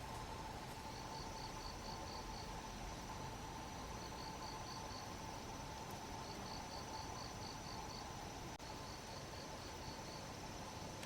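Forest ambience with insects, likely crickets, chirping. A high chirp repeats in runs of about five to eight pulses, every second or two, over a steady hum and hiss.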